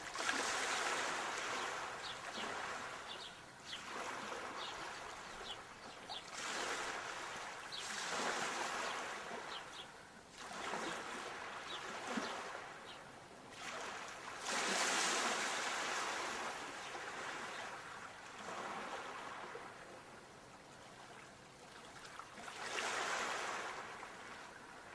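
Sea waves breaking on a shore: a wash of surf that swells and falls away again about every three to four seconds.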